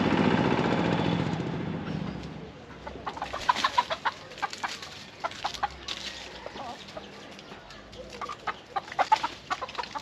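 A passing vehicle's engine fades away over the first two seconds or so, then chickens cluck in many short, irregular calls.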